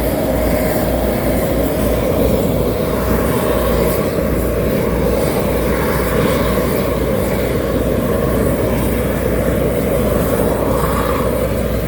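Heavy road-construction machinery running steadily at a loud, even level, a dense low rumble with no pauses.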